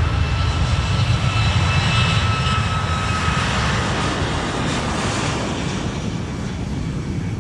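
Airliner jet engines roaring at takeoff thrust, with a thin steady whine over the low rumble. The whine fades a little past halfway and the roar slowly dies down toward the end.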